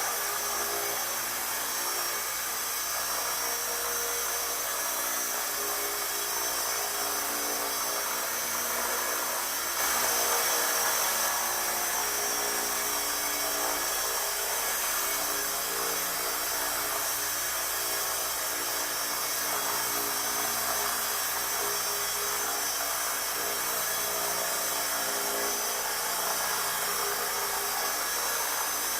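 Kyosho EP Caliber M24 electric RC helicopter flying: a steady high-pitched whine from its electric motor and gears over rotor noise, a little louder from about ten seconds in.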